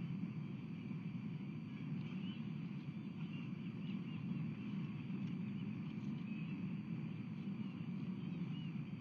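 Steady low background rumble with faint, short, high bird chirps repeating throughout.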